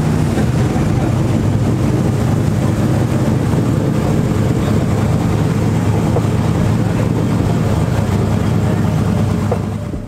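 Loud, steady engine noise from a truck running close by; it cuts off at the very end.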